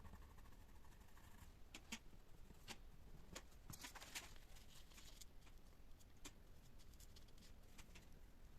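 Near silence, with faint scattered light clicks and a brief scratching sound about four seconds in.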